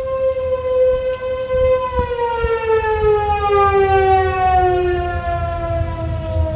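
Outdoor tornado warning siren holding a steady tone, then about two seconds in starting to wind down, its pitch falling steadily. Low rumble of storm wind and rain underneath.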